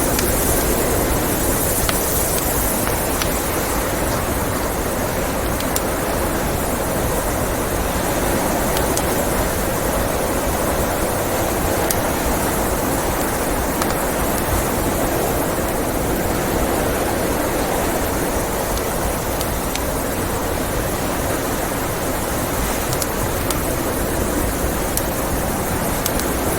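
Steady rushing wind of a blizzard, with a log fire crackling and giving occasional sharp pops.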